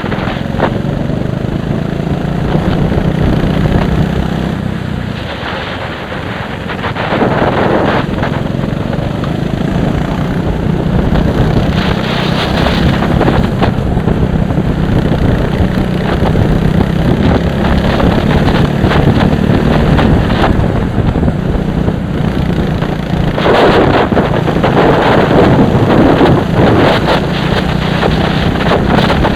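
Heavy wind buffeting on the microphone, in gusts, over the steady running of a racing vehicle's engine at speed on track.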